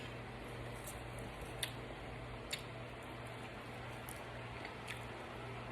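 Quiet room with a steady low hum and a few faint, soft clicks.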